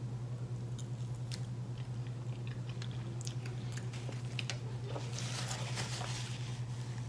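Close-miked chewing of a mouthful of sauced chicken from a kebab skewer, with small wet mouth clicks, over a steady low hum. From about five seconds in there is a denser rustle as a paper napkin is handled at the mouth.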